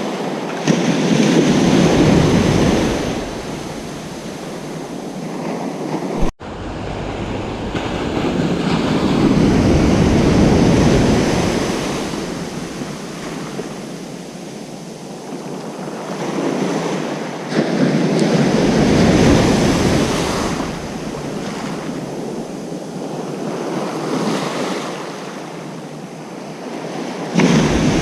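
Ocean surf on a beach: waves break and wash in, swelling and easing again about every eight to nine seconds.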